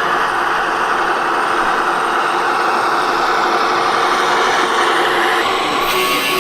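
Steady engine-like running noise with no breaks. Near the end the sound changes and a steady high tone comes in.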